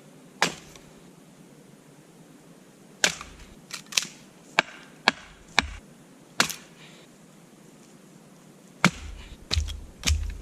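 Axe striking a log being split, about ten sharp knocks at uneven intervals. The log is a tough one to split, so it takes many blows.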